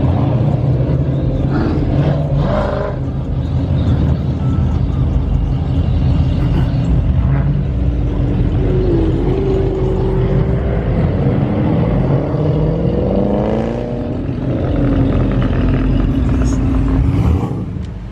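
Car engine running steadily, then rising in pitch as the car accelerates about two-thirds of the way through, before settling back down.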